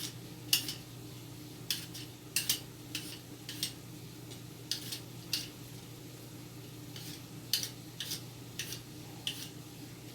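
Kitchen utensils tapping and clicking against dishes in short, irregular strokes, about one or two a second, over a steady low hum.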